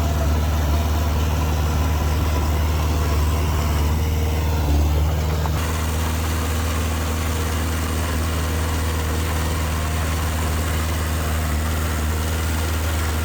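Diesel engine of heavy earthmoving machinery running steadily with a deep, even hum, swelling briefly about five seconds in.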